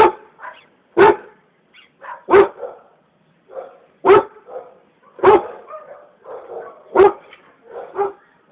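A dog barking repeatedly: about seven loud single barks, roughly one every second or so, with softer barks in between.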